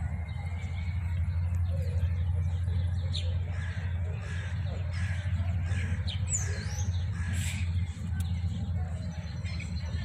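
Small birds chirping in a quick repeated series, about two short high chirps a second, over a steady low rumble.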